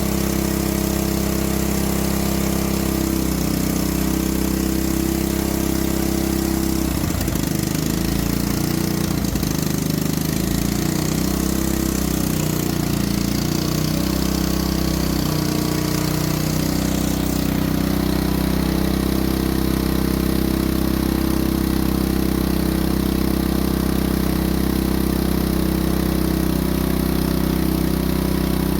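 A small engine running steadily at idle, its low hum wavering unevenly for a few seconds partway through before settling again.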